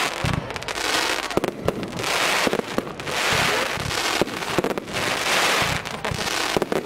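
Fireworks going off one after another: sharp bangs of shots and bursts, each followed by about a second of dense crackling from glittering stars, repeating about every second or so.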